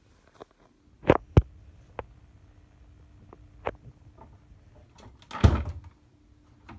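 Knocks and clunks of a front-loading washing machine's parts being handled: two sharp knocks about a second in, a few lighter clicks, then a longer, louder clatter about five and a half seconds in.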